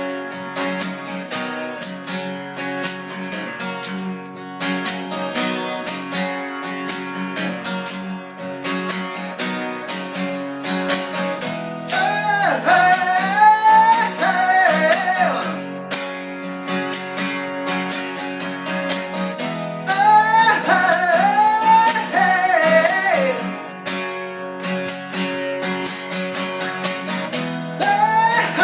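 Live band playing an instrumental break of a rock song: guitars and held chords over a steady percussive beat. A bending lead melody comes in about twelve seconds in and again about twenty seconds in.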